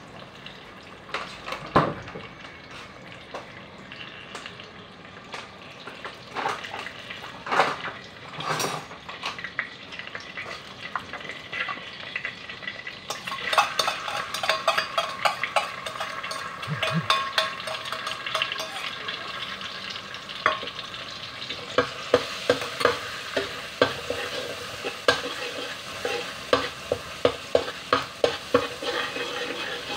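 Oil sizzling in a wok with a few scattered clinks. About 13 seconds in the sizzle swells sharply as minced garlic goes into the hot oil. Later a metal spatula stirs it, scraping and clinking against the wok about twice a second.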